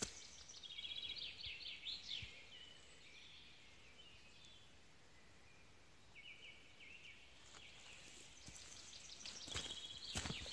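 Songbirds singing short trilled phrases, once in the first couple of seconds and again about six seconds in. Footsteps crunch on dry brush and twigs near the end.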